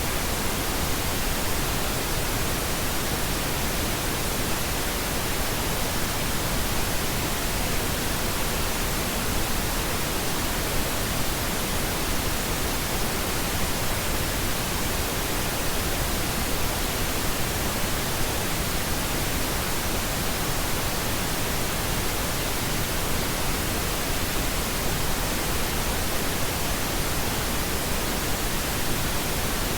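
Steady pink noise: an even, unchanging hiss spread across all pitches, continuous sleep noise.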